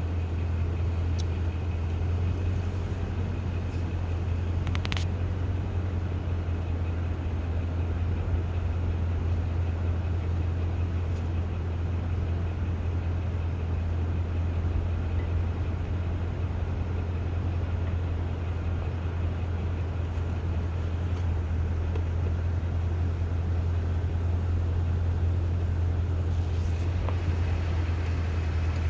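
Steady low drone of a car's engine and tyres heard from inside the cabin as it creeps along, with one brief click about five seconds in.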